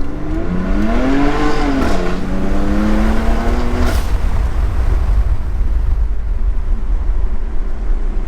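BMW F80 M3's twin-turbo straight-six running through an M Performance exhaust: the engine revs up and drops back, holds a steady note, then about four seconds in the note gives way to a deep, continuous exhaust rumble.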